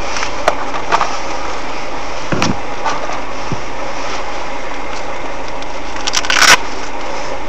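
Steady hum of a stationary car's idling engine heard from inside the cabin through a dashcam microphone, with a few faint clicks near the start and a short louder noise about six seconds in.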